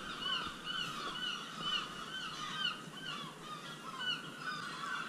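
A bird calling over and over: a run of short, high notes that rise and fall, about three a second, which grows fainter and sparser in the second half.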